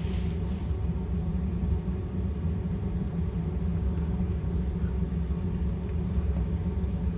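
Steady low rumble of background machinery, with a few faint, light clicks as small pistol parts are worked with pliers, pressing out the hammer strut.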